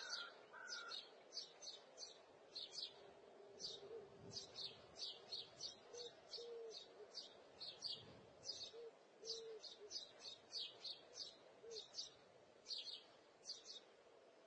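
Faint bird chirps repeating about twice a second, with a few short lower notes in between.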